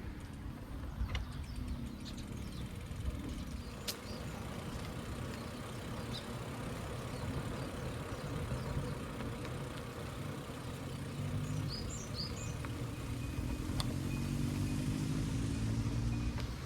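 Steady low road rumble, with a motor vehicle's engine rising in pitch and growing louder near the end. A few short bird chirps come about twelve seconds in.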